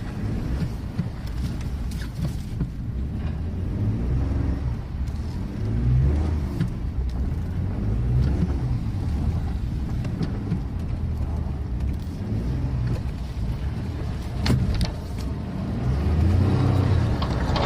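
Ford F-150 EcoBoost pickup's twin-turbo V6 engine revving up and down over and over while the truck drifts in snow, with a couple of sharp clicks about fourteen seconds in.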